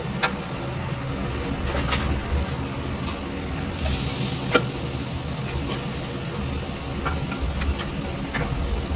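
Workshop noise: a steady low mechanical rumble, with scattered sharp clicks of tools on metal and a short hiss about four seconds in.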